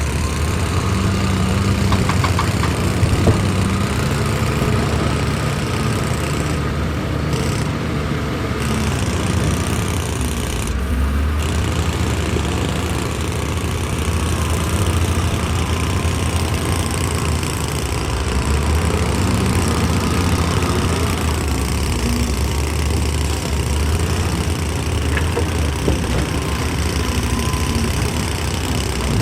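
Heavy excavator engine running steadily, a continuous low drone with no big change in level.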